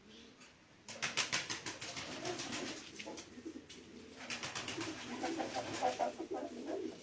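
Pigeons cooing low and repeatedly. Two runs of rapid rattling clicks come over the cooing, one from about a second in and one from about four seconds in.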